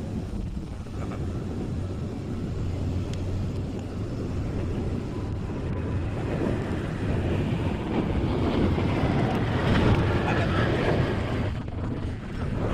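Cummins diesel engine running with a steady low hum, growing louder for a few seconds in the second half.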